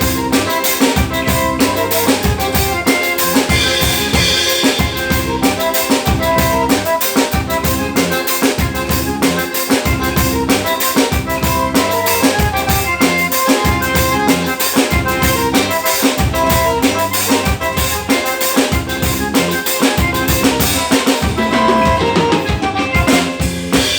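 Live band playing with a drum kit keeping a steady, fast beat of bass drum, snare and rimshots under held instrument notes.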